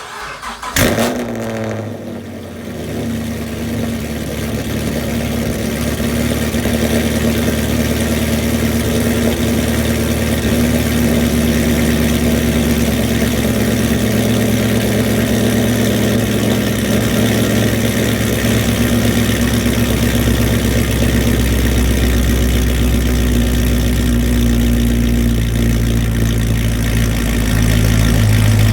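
2010 Chevrolet Camaro engine, straight-piped from new headers with no catalytic converters, starting for the first time since the install. It cranks and catches about a second in with a brief flare in revs, then settles into a loud, steady idle.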